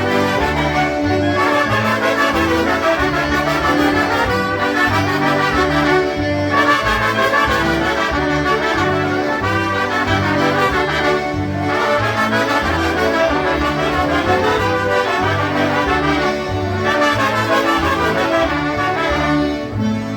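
Live polka band playing a polka, with horns and concertinas over a steady oom-pah bass.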